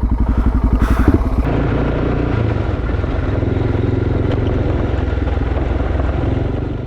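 Suzuki DR650's single-cylinder engine thumping in even low pulses, then running on more steadily with a rougher, noisier sound from about a second and a half in.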